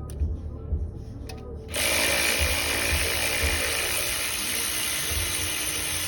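A power tool runs steadily for about four seconds, starting suddenly about two seconds in, with a hissing edge.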